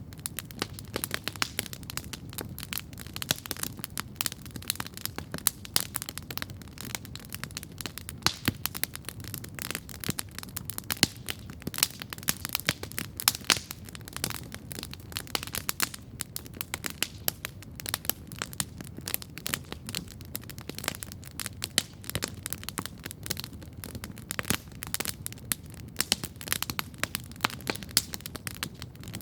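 Wood campfire crackling and popping steadily, with dense irregular sharp snaps over a soft low hiss of the burning.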